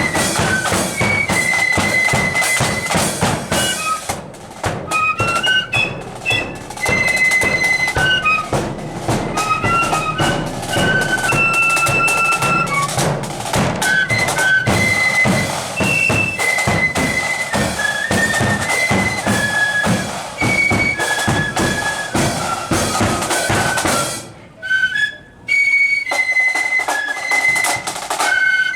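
Marching flute band playing a tune in unison over snare and bass drums. The melody breaks off briefly near the end, then the flutes come back in.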